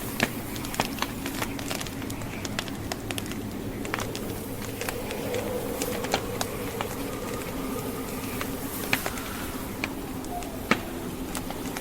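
Wood fire crackling in a fireplace, with frequent sharp pops and snaps, a few louder ones about a second in and near the end, over the steady rushing and faint howl of blizzard wind.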